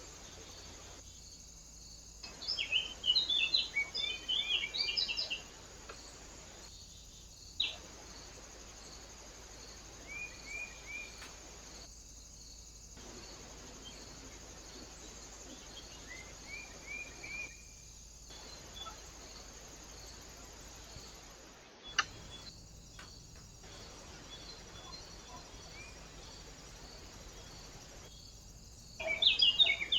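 Small birds chirping at a bird feeder in short bursts of high chirps. The busiest, loudest bursts come a few seconds in and again at the end, with a few fainter chirps between, over a steady hiss.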